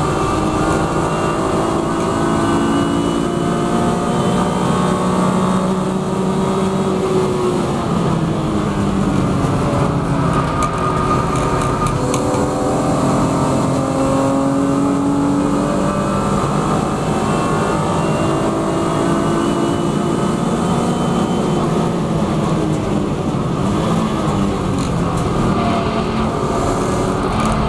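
BMW E36 M3 Evo's straight-six engine heard from inside the race car's cabin at racing speed, its pitch rising as it revs up through the gears and falling again under braking, over and over.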